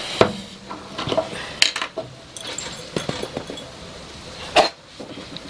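Glass jar and its cap being handled and set down: a scatter of short clinks and knocks, the loudest just after the start and again about four and a half seconds in.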